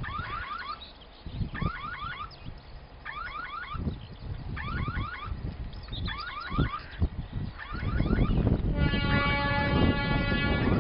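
A bird repeats a short phrase of quick rising chirps about every one and a half seconds while wind buffets the microphone. About nine seconds in, a steady multi-tone horn sounds and holds, the loudest sound here: the horn of the approaching diesel locomotive.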